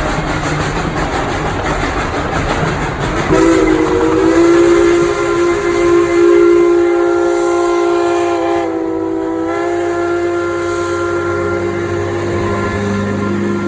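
Steam locomotive whistle blowing one long, steady blast of about ten seconds, starting a few seconds in and dipping briefly in pitch midway, over the rumble of the train.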